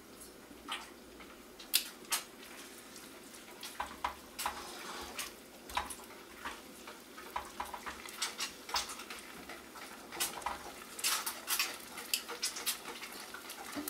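Diced chicken breast sizzling in hot oil in a non-stick frying pan, with scattered clicks and scrapes as tongs turn the pieces.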